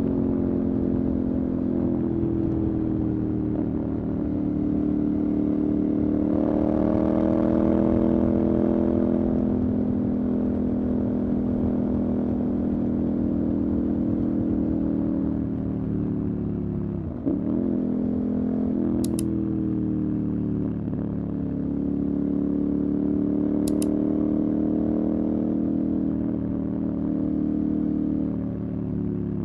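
Motorcycle engine running on the move, holding a fairly steady note. About halfway through the pitch dips sharply and climbs back up. Two brief high chirps sound later on.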